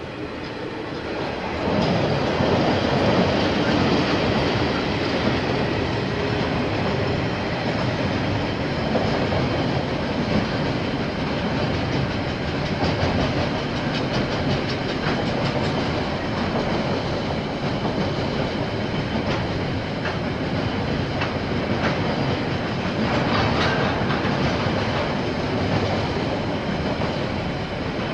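A KiwiRail train passing close by. It grows louder over the first two seconds, then runs at a steady level as the train rolls past.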